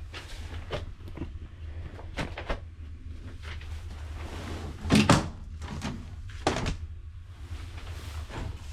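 Metal knocks and clunks from cleaning work on a dirty gas boiler, scattered irregularly, with one loud clunk about five seconds in, over a steady low hum.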